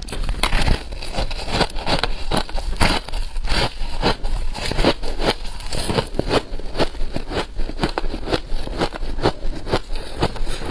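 Freezer frost being bitten and chewed close to the microphone: crisp crunches in quick, irregular succession, several a second.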